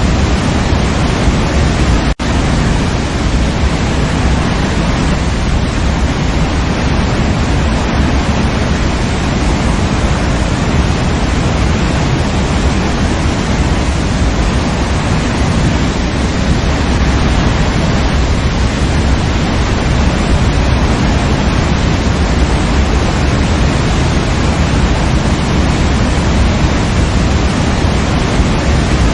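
Waterfall: water falling and splashing in a steady, dense rush, heaviest in the low end. About two seconds in there is a brief break in the sound.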